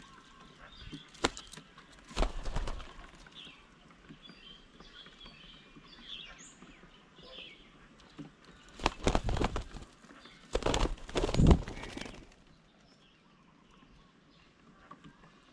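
Birds at a bird table: several short bursts of wing flapping and scuffling, the loudest pair about two-thirds in, over scattered faint chirps from birds around.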